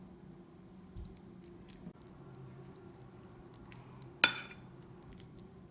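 Soft wet squishing and faint clicks of a utensil spreading lasagna filling in a baking dish, with one sharp clink of the utensil against the dish about four seconds in, over a low steady hum.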